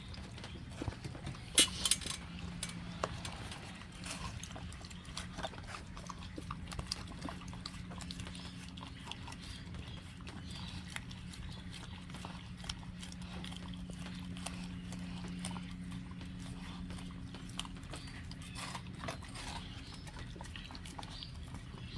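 An animal chewing watermelon: irregular wet crunching and smacking clicks, loudest about two seconds in, over a faint steady low hum.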